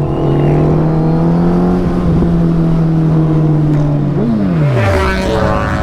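Suzuki Hayabusa motorcycle engine under way, held at steady revs for about four seconds, then revs rise briefly and drop sharply before picking up again near the end. Low wind rumble throughout.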